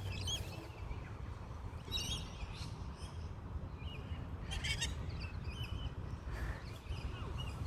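Birds calling in short chirps, several separate calls, over a low steady rumble.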